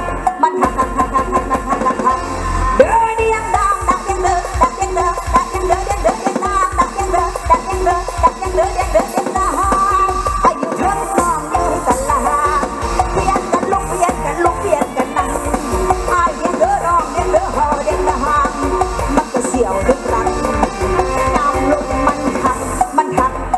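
Mor lam sing band music through a loud outdoor PA: a steady driving beat and heavy bass under a bending lead melody line, with no words sung.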